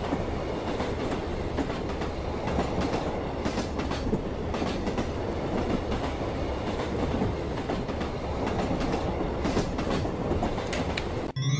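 A train running on rails: a steady rumble with scattered clacks from the track. It cuts off abruptly near the end.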